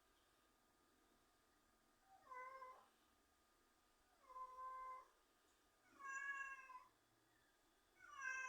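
Kitten meowing four times, short high-pitched calls about two seconds apart, the last one near the end.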